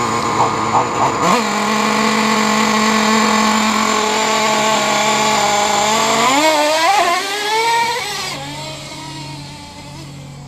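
Traxxas 3.3 nitro monster truck's small two-stroke glow engine running at high revs, held steady for several seconds after a jump in pitch early on. Around six seconds in it wavers and falls back to a lower, quieter speed. The engine's carburetor is still being tuned.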